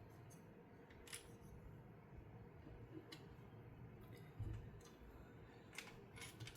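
A few faint, sharp clicks of small plastic LEGO pieces being handled and pressed into place, spaced a second or two apart, with a dull thump about four seconds in.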